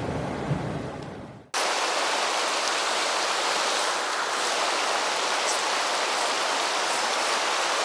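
Mountain stream water rushing steadily. About a second and a half in, a duller, lower noise fades away and the sound cuts abruptly to a brighter, even rush of water.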